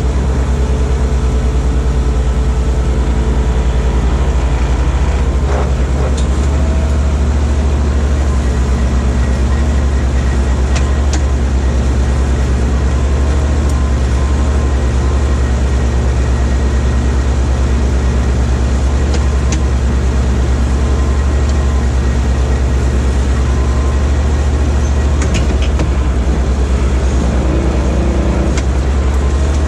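Small skid steer's engine running steadily with a low, even drone, and a few light clicks now and then.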